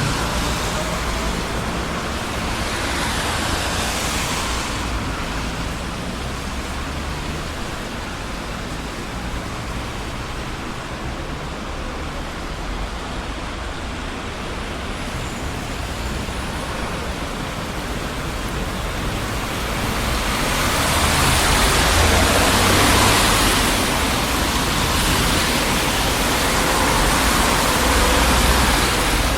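Steady traffic noise from a busy city street: a constant rumble of engines and tyre hiss, swelling as vehicles pass about three seconds in and again over the last ten seconds.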